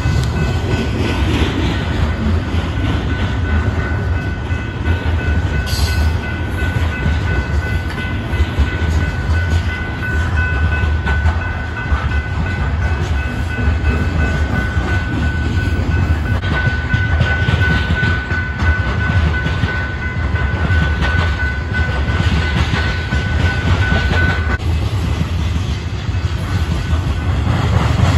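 BNSF coal train passing close by: the trailing GE diesel locomotive goes by at the start, then a long string of coal hopper cars rolls past with a steady low rumble and wheel clatter over the rail joints. A steady high ringing tone runs through most of it and cuts off suddenly near the end.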